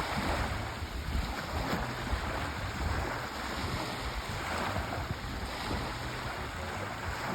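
Sea waves washing ashore: a steady rushing surf that swells and eases every couple of seconds, over a low rumble of wind on the microphone.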